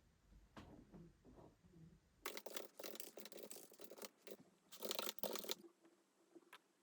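Close rustling and scraping in short rapid bursts, loudest in two stretches from about two and a half to four seconds in and around five seconds in.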